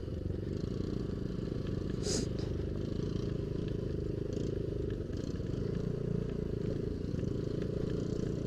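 Yamaha Aerox scooter running steadily while riding a rough off-road track, with faint scattered rattles and one brief sharp knock about two seconds in.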